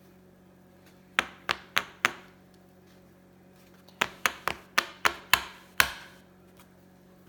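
Sharp knocks on a hard surface, a quick run of four, then after a pause of about two seconds a run of seven.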